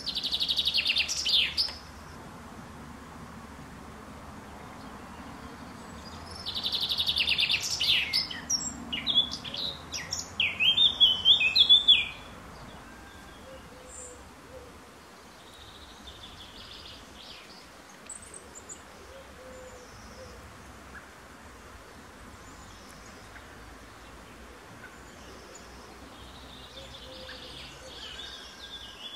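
Songbirds singing: one close bird gives a loud burst of rapid high chirps right at the start and a longer, varied phrase from about 6 to 12 seconds in. After that, only fainter, more distant bird calls are heard over a low, steady background.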